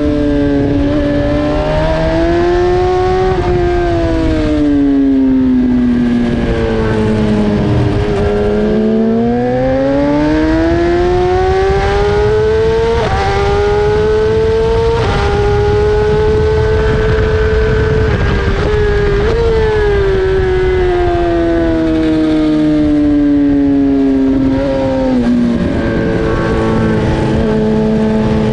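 BMW S1000RR inline-four engine at racing speed, its pitch rising under acceleration and falling when the throttle closes, with abrupt steps at the gear changes.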